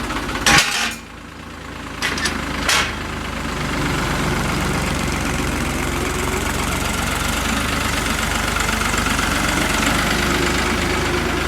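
New Holland 3630 tractor's three-cylinder diesel engine running steadily. Short bursts of noise come about half a second in and again around two to three seconds, with a brief dip in level between them, before the engine settles into an even run.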